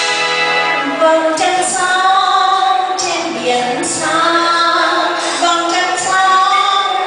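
A woman singing over instrumental backing music, her voice entering about a second in.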